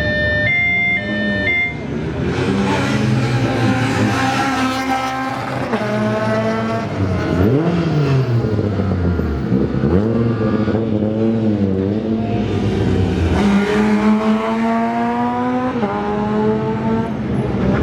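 Rally car engines revving hard up through the gears, each run climbing in pitch and breaking at the shifts, with a falling, lower sweep about eight seconds in and another run of climbing revs from about twelve seconds. A high two-pitch beeping sounds in the first two seconds.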